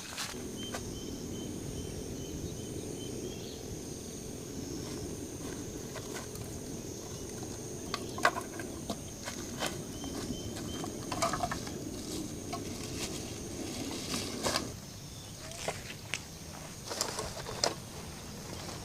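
Insects calling steadily in a high, thin tone, with a faster pulsing chirp above it. Scattered clicks and knocks sound over a low rushing noise that cuts off about three-quarters of the way through.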